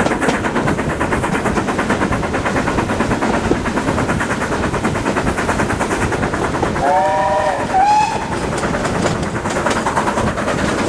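Heritage train running with a rapid, even beat, about six or seven a second. About seven seconds in it sounds a brief warning blast of several notes at once, followed by a short single higher note.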